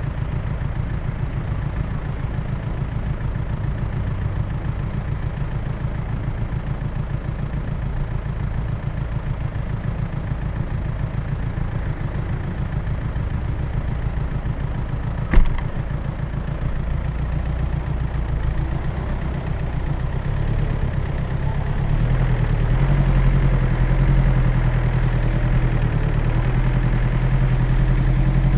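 Land Rover Discovery 1 engine idling steadily, with one sharp knock about halfway through. In the last several seconds the engine grows louder as the vehicle pulls away.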